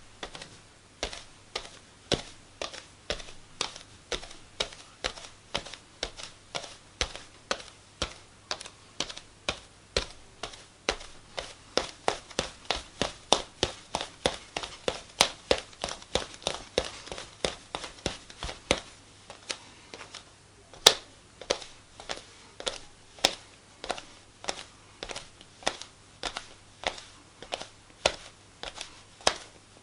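Footsteps on a wooden floor at a steady walking pace, about two sharp steps a second, with the loudest step about two-thirds of the way through.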